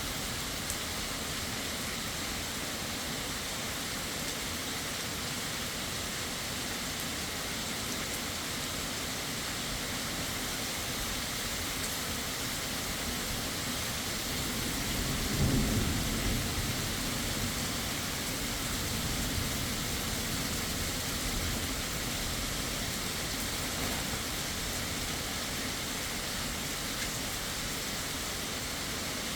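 Heavy rain falling steadily, with a low rumble of thunder that swells and fades about halfway through.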